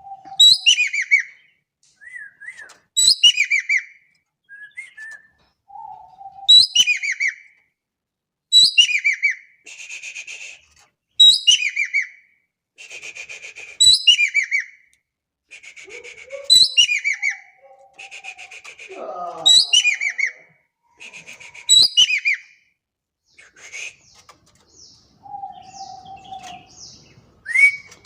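Ekek keling bird calling over and over: a sharp call that falls in a quick string of notes, repeated about every two to three seconds, alternating with harsh buzzy rattles, and now and then a lower whistled note.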